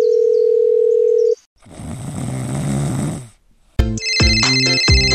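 Edited-in electronic sound effects. A steady beep tone sounds for the first second and a half, then a noisy whooshing sound lasts about two seconds. A rhythmic electronic jingle with a beat starts near the end.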